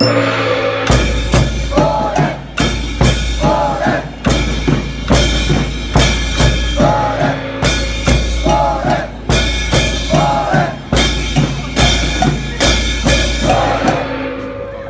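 Festival float music from a children's ensemble: bass drum and snare drum beating a steady march-like rhythm, with a short melodic phrase coming back every couple of seconds. The drums come in about a second in.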